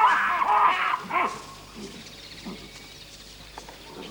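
Baboons calling: a burst of loud, arching yelps and barks in the first second or so, then only scattered quieter calls.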